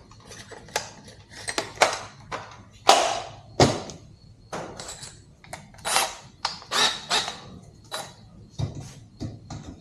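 Irregular clicks, clinks and knocks of tools being handled: a drill bit being picked out and fitted in the drill, about a dozen separate strikes with no drill motor running.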